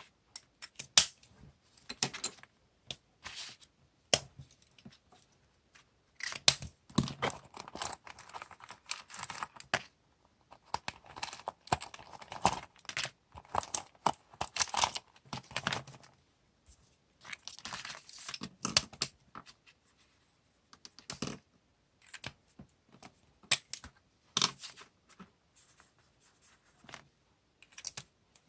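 Paper, sticker sheets and washi tape being handled on a desk: irregular rustles, tears and light taps or clicks in short bursts, with brief pauses between.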